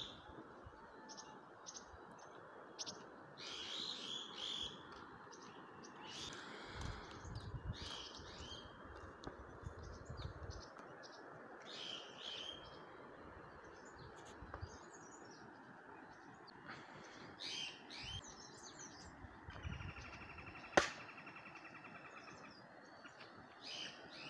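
Birds chirping and tweeting in short, scattered bursts over a steady background hiss. A single sharp click sounds about twenty seconds in.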